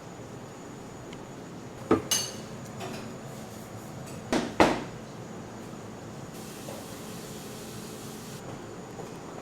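Metal kitchenware clattering: two pairs of sharp clanks, about two seconds in and again about four and a half seconds in, one with a brief metallic ring. A soft hiss follows for about two seconds.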